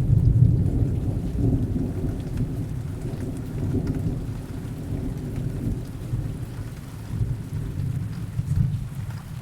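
Heavy rain with a long rolling rumble of distant thunder that is loudest at the start and slowly dies away, leaving the steady hiss of rain.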